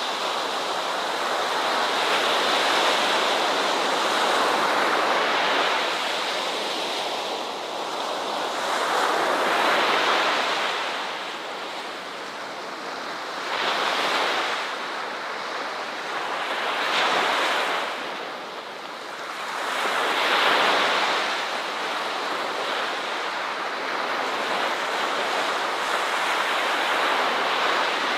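Ocean waves washing onto a beach: a continuous surf that swells and eases every few seconds as each wave comes in.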